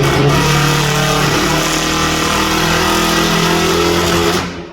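Modified car engine held at high revs in a rev-off, loud and steady at one pitch, then dropping off sharply near the end.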